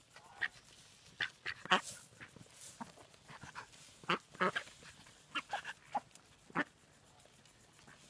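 Domestic ducks quacking in short, scattered calls, a few in quick succession at a time.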